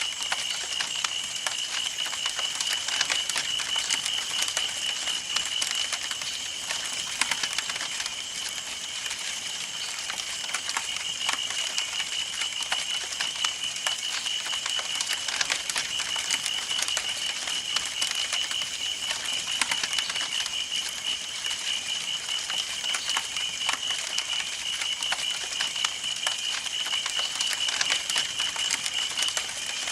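Campfire burning: wood crackling with many small, irregular snaps and pops, over a steady high trilling tone.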